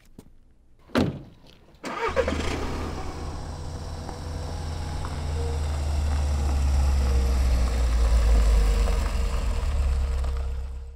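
A thump about a second in, then a car engine starts about two seconds in and runs with a deep, steady rumble that grows louder until it cuts off suddenly.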